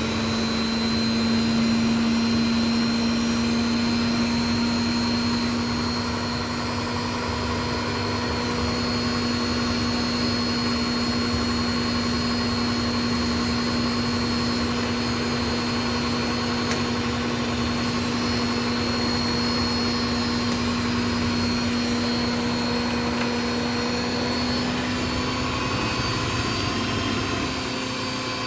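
Indesit washing machine on its 1000 rpm spin, running at speed: a steady motor whine over the rumble of the spinning drum, shifting slightly in pitch near the end.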